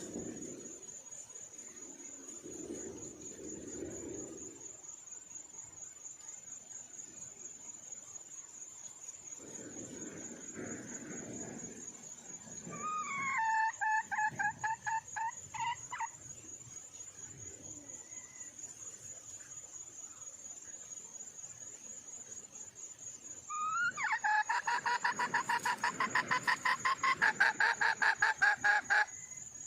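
Wild red junglefowl hen calling: two bouts of fast, repeated notes, a short one about halfway through and a longer, louder one near the end.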